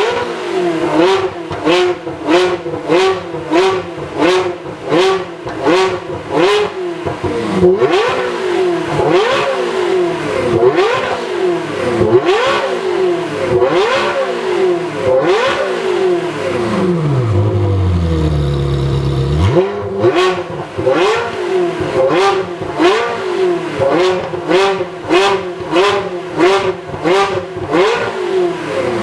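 Ferrari 360 Challenge Stradale's flat-plane V8, breathing through a one-off custom exhaust, being blipped over and over: short sharp revs about once a second that drop back quickly. A few longer, higher revs come near the middle, and the engine settles briefly to a low steady note before the quick blips return.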